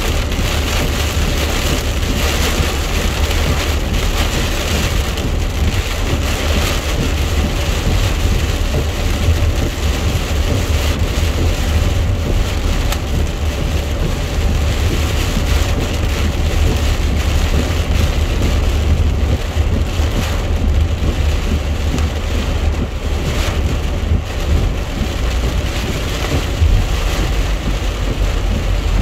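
Heavy rain drumming on a car's roof and windshield, heard from inside the moving car, over a steady low rumble of tyres on the wet road.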